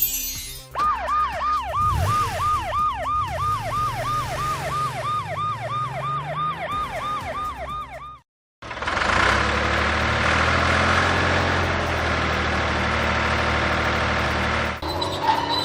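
Siren sound effect: a fast repeating falling tone, about three sweeps a second. It breaks off suddenly and, after a brief pause, gives way to a steady rushing noise over a low engine hum.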